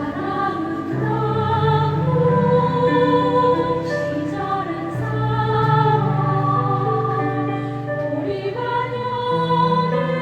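Choir singing a Korean choral song in sustained, held chords with piano accompaniment.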